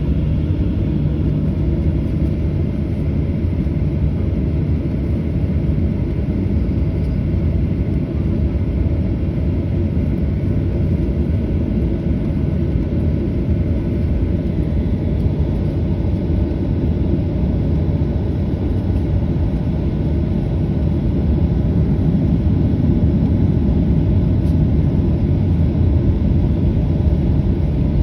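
Airbus A320 jet engines giving a steady low rumble, growing a little louder about three quarters of the way through.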